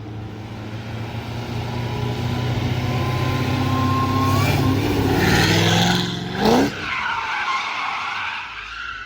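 A Cadillac CT5-V Blackwing's supercharged V8 running under throttle while its rear tires squeal and scrub in a drift. The engine note climbs from about halfway through, with a short loud rise in pitch about two-thirds of the way in.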